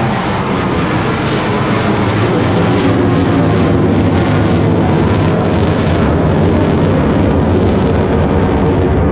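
Aircraft of an air-show formation team flying past: a loud, steady engine noise that builds over the first few seconds and then holds.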